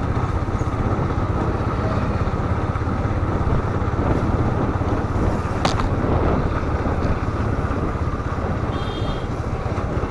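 Motorcycle running while being ridden, its engine a steady low rumble under wind noise on the microphone; a single sharp click about six seconds in.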